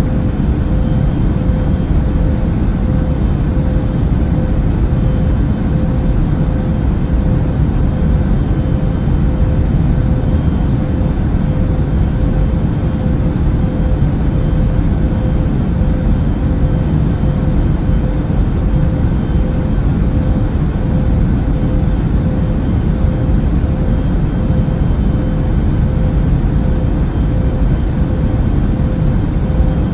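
Airbus A380 cabin noise in flight: a steady, even low rumble with a constant hum running through it, unchanging throughout.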